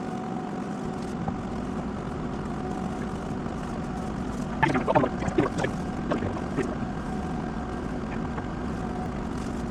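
Steady mechanical hum with a couple of faint steady tones running under it, and a brief cluster of short squeaky, sliding sounds about five seconds in.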